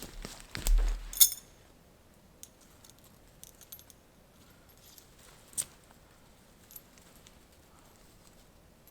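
A handling thump followed by a sharp metallic clink about a second in, then a few faint scattered clicks.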